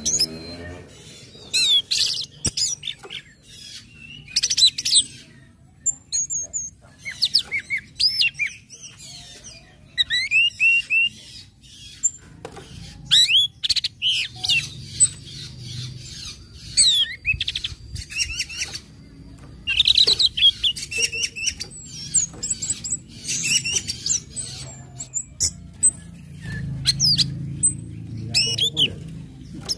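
Orange-headed thrush singing: rapid, varied phrases of high chirps and sliding whistles, delivered in short bursts separated by brief pauses.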